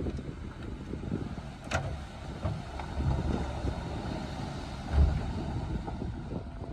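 Heavy earthmoving machinery at work: a diesel engine running with a steady low rumble, a sharp click about two seconds in, and low thumps around three and five seconds in, the one near five seconds the loudest.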